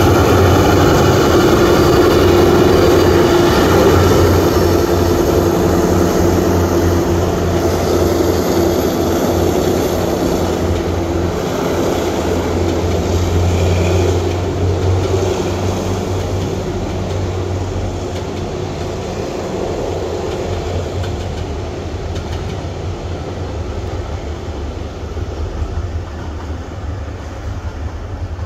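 A diesel locomotive and its passenger coaches passing along the track: steady engine hum with the noise of wheels on the rails, gradually fading as the train moves away.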